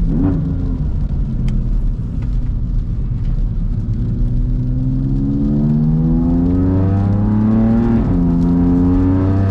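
BMW F80 M3's S55 twin-turbo inline-six accelerating through a resonator-delete exhaust with an Eisenmann rear section, heard from inside the cabin. The engine note holds steady, then climbs in pitch from about four seconds in, drops briefly at a gear change near eight seconds, and pulls again. The owner calls this tone a 'fart cannon' with 'no soul'.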